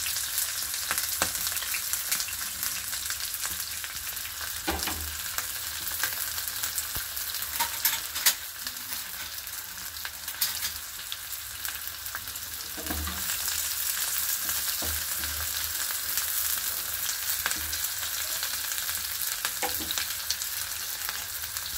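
Sliced red onions and curry leaves frying in hot oil in a non-stick pan: a steady sizzle with a few sharp crackles now and then.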